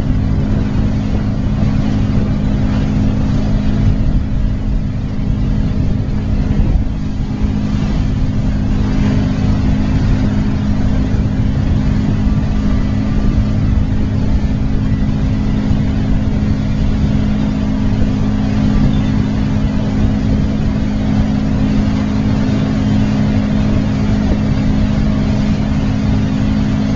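Motorboat engine running at a steady speed under way, over a steady rushing noise of water and air.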